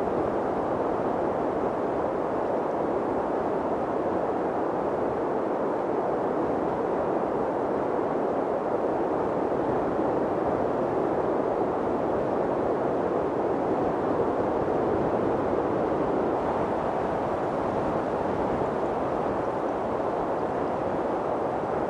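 Wind blowing steadily: an even rushing noise that holds at one level, with no gusts or other sounds.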